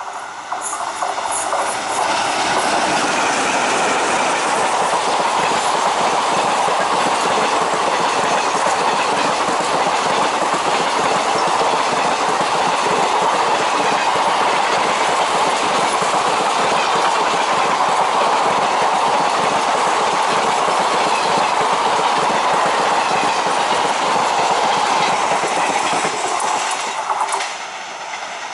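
Passenger express coaches rolling past close by at speed: a loud, steady rumble of steel wheels with clickety-clack over the rail joints. The noise drops off sharply near the end.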